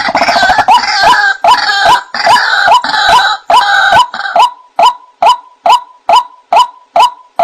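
White-breasted waterhen calling: a harsh, overlapping croaking for the first four seconds or so, then single short notes repeated evenly, a little over two a second.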